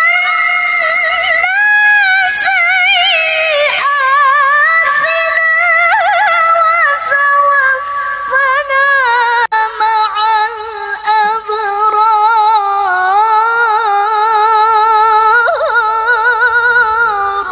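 A woman reciting the Quran in melodic tilawah style, holding long, high, ornamented notes with a fast waver. The melody steps down lower in the second half and the phrase ends just before the close.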